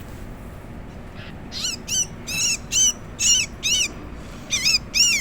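Sooty-headed bulbul calling: a run of short, harsh calls, about two a second, starting a little over a second in and getting louder.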